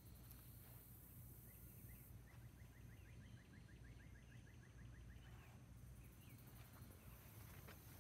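Faint outdoor ambience: a bird sings a trill of quick, evenly repeated notes, about six a second, for roughly three seconds in the middle, over a low rumble and a high hiss that comes and goes.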